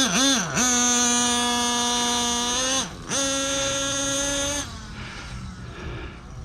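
CXP .26 nitro engine of a 1/8-scale RC monster truck, blipped up and down a few times, then held at a high, steady whine. The whine dips briefly about three seconds in and drops away suddenly near the five-second mark.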